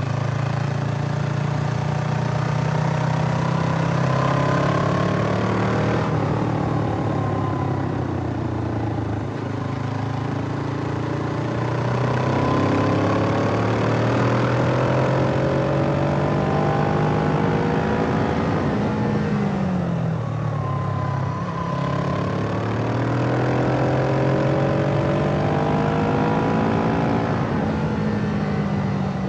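Suzuki GS500E's parallel-twin engine pulling through the gears: the pitch climbs steadily, drops at a shift about six seconds in, and climbs again. About two-thirds of the way through it falls away as the engine slows, then it picks up once more.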